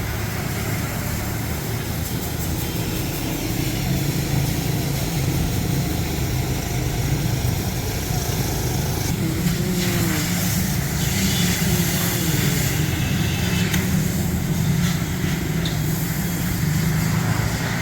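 Steady low mechanical drone with a hiss over it, which gets a little louder about halfway through.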